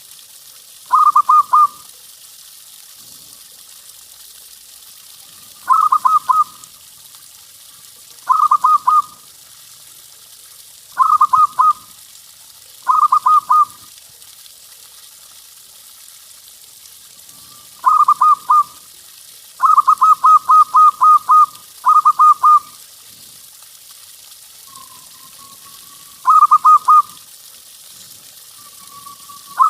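Zebra dove (perkutut) cooing song: about nine short phrases, each a quick run of rolled notes, with gaps of a few seconds between them, and one longer run about twenty seconds in. A faint steady hiss sits underneath.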